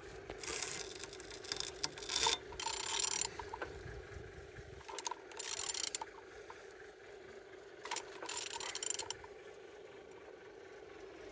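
Used 17V41 engine being turned over by hand with a wrench: several strokes of ratcheting, grinding mechanical noise separated by pauses. The engine turns freely, a sign it is not seized.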